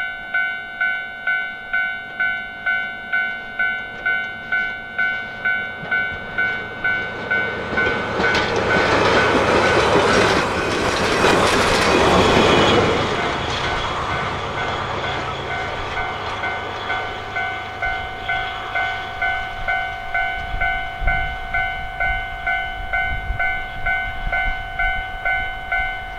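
A train passes, swelling to its loudest about ten to thirteen seconds in and then fading. Throughout, a ringing tone repeats about twice a second.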